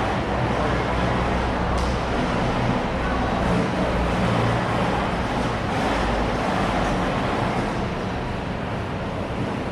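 School canteen ambience: a steady, dense murmur of many voices blurred together in a large room, over a low rumble, with a faint click about two seconds in.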